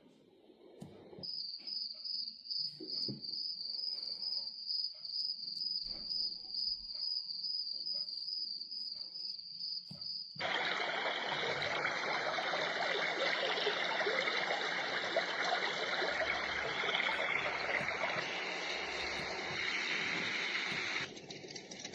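A Dreamegg Pocket Sleep 1 mini white noise machine playing its cricket sound through its small speaker: a fast, even, high chirping. About ten seconds in it switches abruptly to a dense, steady hiss of noise.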